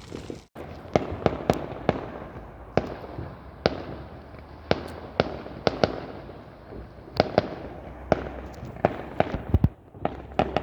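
Fireworks going off: a quick, uneven run of sharp bangs, one to three a second, over a low continuous rumble.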